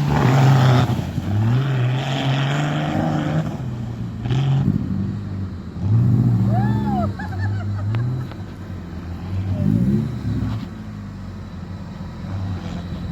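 An off-road 4x4's engine revving up and down again and again, its pitch rising and falling with each burst of throttle.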